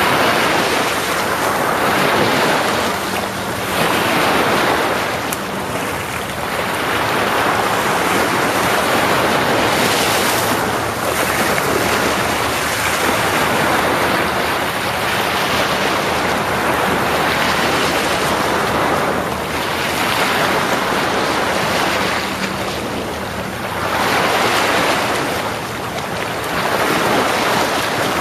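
Ocean waves breaking and washing up a beach, surging every few seconds in a steady rhythm of swells. Wind buffets the microphone.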